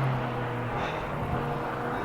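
Ferrari F40 LM's twin-turbo V8 idling, a steady low note that wavers briefly around the middle.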